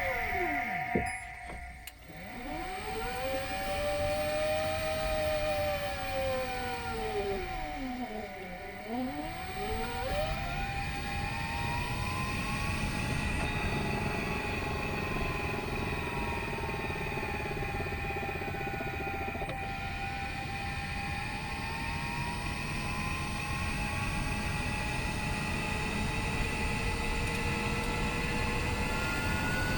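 Mazda MX-30's driveline heard from the cabin while driving: several whining tones that slide down and back up in pitch, with a steady whine and a low rumble underneath. The owner reports this driveline rattling and rumbling as a fault that persisted after the reducer was replaced.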